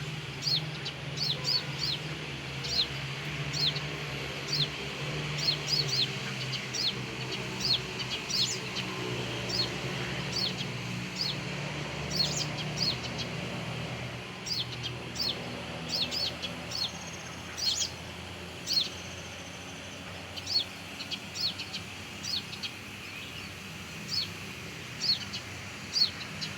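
Little spiderhunter calling: a long run of short, sharp, high chirps, each dropping quickly in pitch, one to three a second, over a low steady hum that fades about halfway through.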